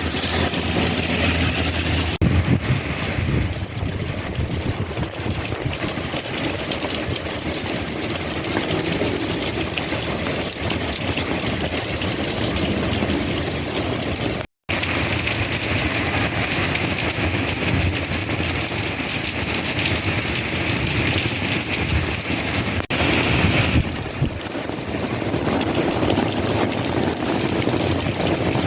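Heavy monsoon rain falling in a steady dense hiss, with a low rumble of wind on the microphone. The sound cuts out completely for a moment about halfway through.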